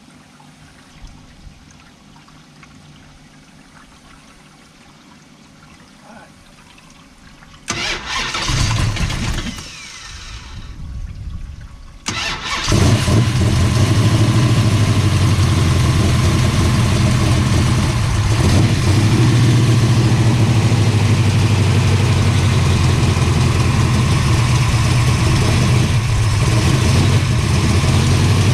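Freshly installed 512 cubic-inch big-block Mopar stroker V8 in a 1968 Plymouth Barracuda drag car being started. After several quiet seconds it cranks for about two seconds, then catches about twelve seconds in and runs loud and steady.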